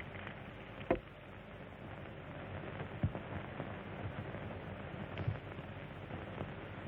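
Steady hiss and hum of an old film soundtrack, with a few dull knocks: the loudest about a second in, others near three and five seconds.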